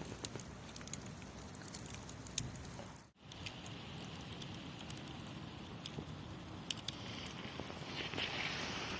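Campfire crackling, with irregular sharp pops and snaps, and a faint hiss near the end.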